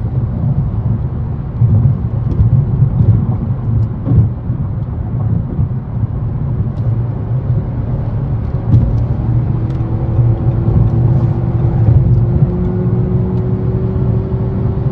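Nissan Rogue Sport's MR20DD four-cylinder engine and road noise while driving: a steady low rumble, with a tone that rises slowly in pitch from about nine seconds in as the car accelerates. The engine is running smoothly on a new VIN J relay.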